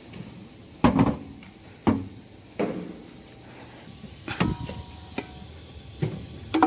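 About eight sharp, irregular metallic knocks and clanks, like hand tools and parts being handled, set down and struck during engine work, over a faint steady hiss.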